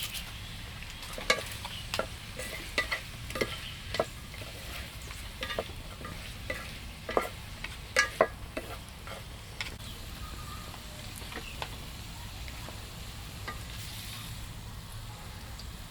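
Irregular sharp clicks and light taps, clustered in the first half and thinning out after about nine seconds, over a steady low hum.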